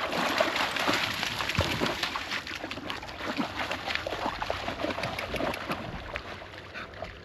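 A dog splashing in shallow lake water, with irregular sloshing and spattering that grows fainter toward the end.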